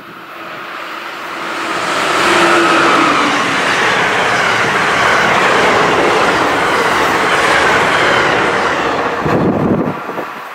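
A train passing close by, its wheels running on the rails: the noise builds over the first two seconds, holds steady, then falls off near the end.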